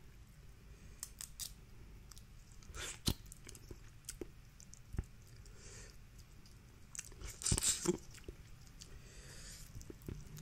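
Close-up eating sounds: seafood shells cracking and clicking as they are broken apart by hand, with wet chewing between, in scattered bursts that are loudest about three seconds in and again near eight seconds.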